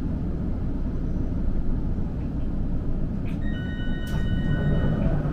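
Inside a standing streetcar: the car's steady low rumble. About three and a half seconds in, a click is followed by a steady two-pitch electronic tone that holds to the end.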